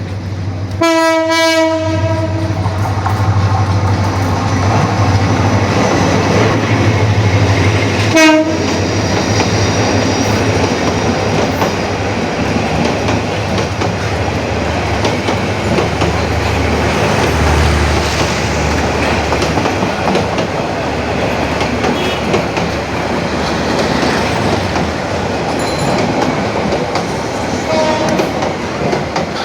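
Bangladesh Railway diesel train passing close by. Its horn sounds once for about a second, about a second in, and gives a short second blast about eight seconds in. After that come the steady running noise of the locomotive and coaches on the track.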